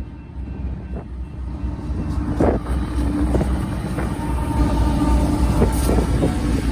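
Diesel locomotives of a freight train rumbling past, the low rumble building over the first couple of seconds, with scattered clanks and knocks from the train.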